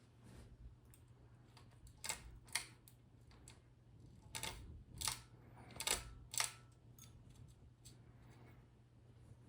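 Hunter Original ceiling fan's motor giving a steady low hum, with about six sharp clicks in quick pairs through the middle.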